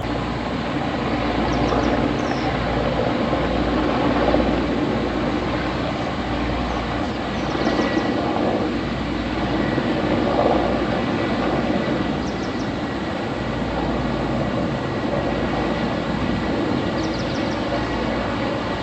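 Helicopter in flight: a steady, loud engine-and-rotor drone that swells slightly a few times.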